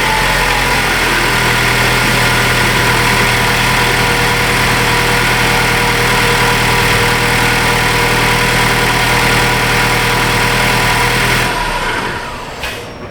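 2014 Ford Focus's 2.0-litre four-cylinder engine just started and idling steadily, then dropping away near the end.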